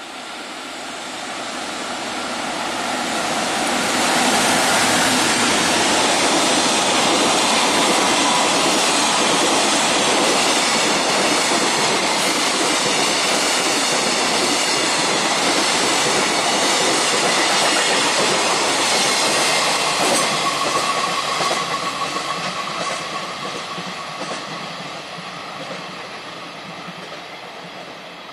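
A freight train hauled by an EF210 electric locomotive, with flat wagons and container wagons, passing on the line: the rumble and clatter of wheels on rail swells over about four seconds, holds steady as the wagons go by, and fades away from about twenty seconds in.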